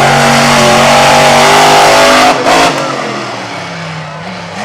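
Monster truck engine held at high revs. About two seconds in it cuts back sharply with a brief blip, then runs much quieter at lower revs.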